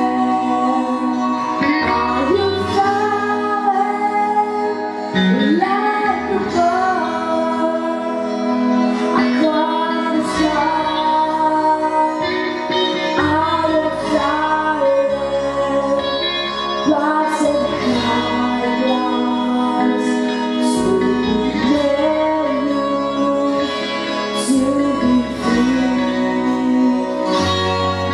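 Music: a woman singing a melody over steady instrumental accompaniment.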